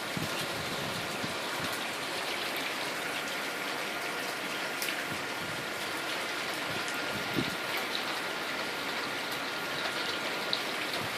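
Steady rain falling: an even hiss with a few faint taps and drips, from the early rain of a hurricane.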